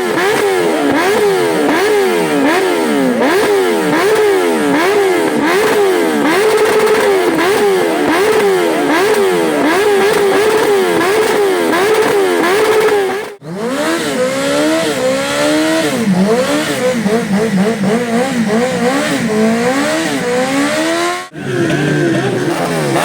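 Stunt motorcycle engine revved hard, its revs rising and falling quickly over and over. After a short break about 13 seconds in, the revs run lower and climb more slowly, with another brief break near the end.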